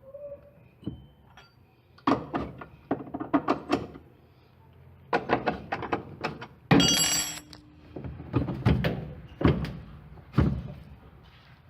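Hand tools and metal parts clicking and knocking in quick clusters while the washing machine's motor is loosened to take off the drive belt, with one loud metallic clank that rings on briefly about 7 seconds in.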